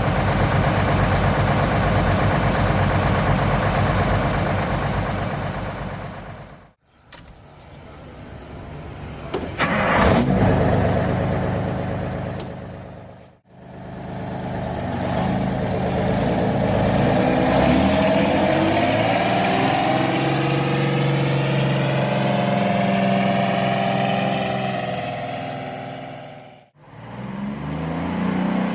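Detroit Diesel truck engines running and revving in several short takes, each ending with a sudden drop to quiet. In one take the engine's pitch rises as it revs up.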